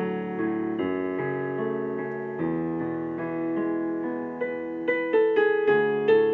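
Solo piano playing a slow, gentle prelude: held chords under a melody of separate notes, with quicker note attacks about five seconds in.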